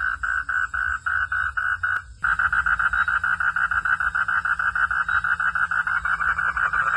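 Frogs calling in a rapid, even train of short pulses, several a second. There is a brief break about two seconds in, after which the calling comes faster and a little louder.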